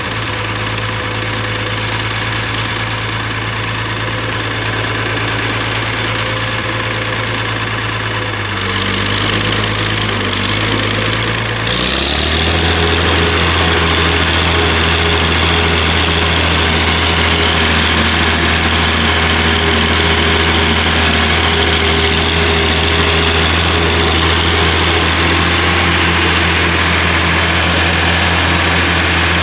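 Farmall 706 tractor engine idling steadily just after being started. About nine seconds in the note wavers, and at about twelve seconds it settles into a deeper, slightly louder steady run.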